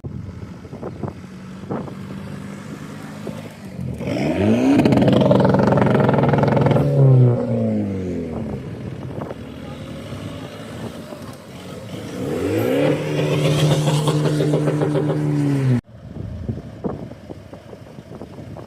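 Car engine revving hard twice, the pitch climbing sharply and holding high for a few seconds each time. The second rev cuts off abruptly.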